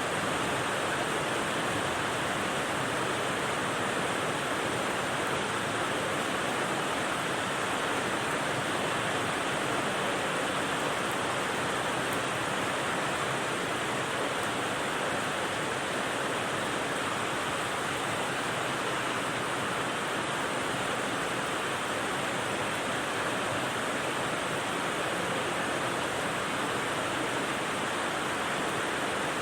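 Steady rain sound used as white noise: an even, unbroken hiss with no single drops or gusts standing out and no change in level.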